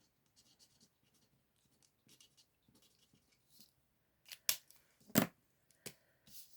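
Alcohol marker nib scratching softly across cardstock in short colouring strokes, then three sharp clicks near the end.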